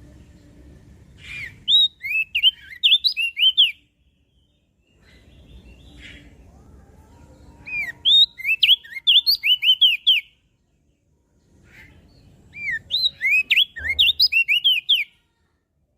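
Crested white-eye (opior jambul) singing three phrases. Each is a quick run of high, sweet whistled notes slurring up and down, lasting two to three seconds with a few seconds' pause between.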